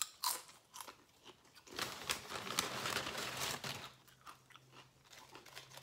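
Close-miked crunching and chewing of a tortilla chip dipped in salsa: a few sharp bites at first, a dense crunch from about two seconds in to nearly four, then softer chewing.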